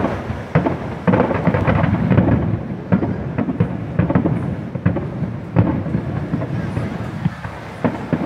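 Aerial fireworks shells bursting: a rapid, irregular series of booms and sharp bangs over a rolling rumble, thickest from about one to three seconds in, then carrying on more sparsely.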